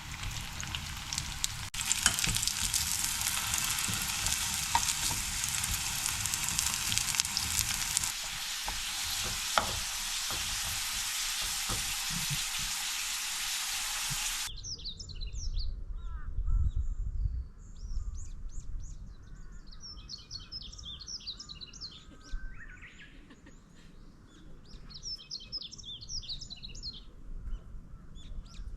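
A dense, steady hiss that cuts off suddenly about halfway through, followed by small birds chirping in short bursts over a quiet outdoor background.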